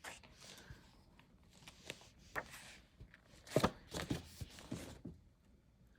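Pages of a large hardcover book being turned and handled: a few short paper rustles and light knocks, the loudest about three and a half seconds in.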